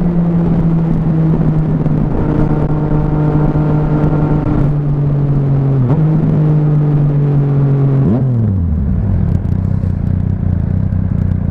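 Motorcycle engine running under way, with wind noise on the microphone; its pitch eases slowly down with two brief dips, then about 8 seconds in the revs drop sharply and settle into a low, steady hum.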